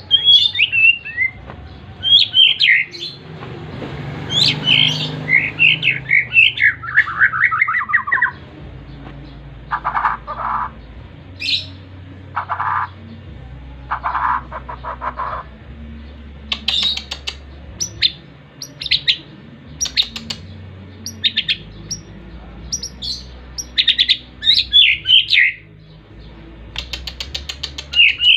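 Pet songbird singing in bursts: sharp chirps and fast trilled phrases that fall in pitch, with several short buzzy calls about halfway through and quick ticking runs near the end.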